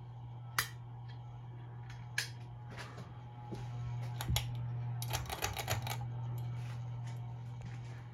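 Hampton Bay Carousel ceiling fan (CEI build) running with a steady low motor hum, while sharp clicks land every second or two and a quick rattle of clicks comes about five seconds in.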